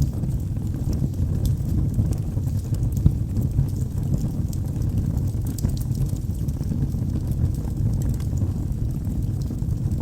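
Wood logs burning in a fireplace: a steady low rumble of flames with scattered sharp crackles and pops, one a little louder about three seconds in.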